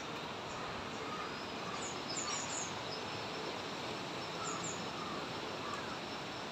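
Small birds chirping briefly a few times, in short high calls, over a steady hiss of outdoor ambience.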